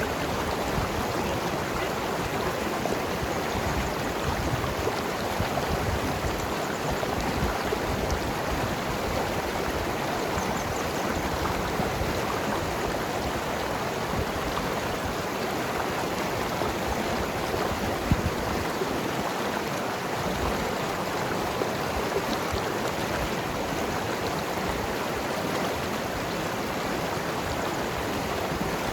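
Mountain river flowing and gurgling steadily over rocks: a constant rush of water, with a single short splash or knock about 18 seconds in.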